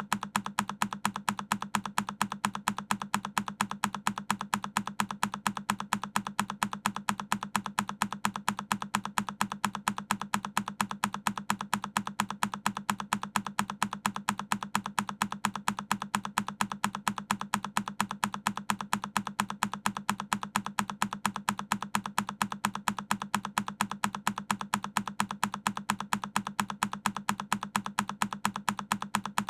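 A single key on a Keychron K10 mechanical keyboard pressed over and over, each press a sharp click, repeating evenly several times a second as a looped sound effect.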